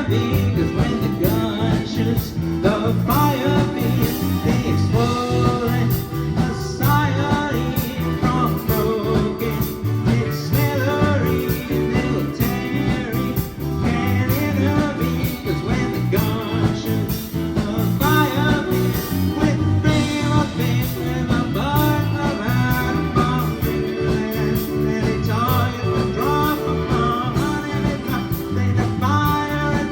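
Live band playing a blues-rock song: electric guitar over bass and drums, with a steady beat.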